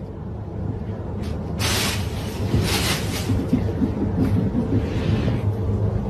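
Steady low rumble with rushes of hiss, strongest between about one and a half and three seconds in, like wind on a microphone or a moving vehicle.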